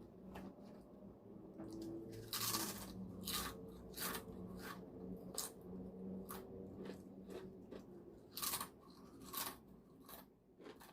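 Crisp snack chips crunched and chewed close to the microphone, sharp irregular crunches coming about once a second.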